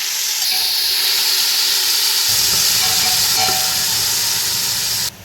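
Onion paste frying in hot oil and ghee with biryani spices: a loud, steady sizzle that cuts off suddenly near the end.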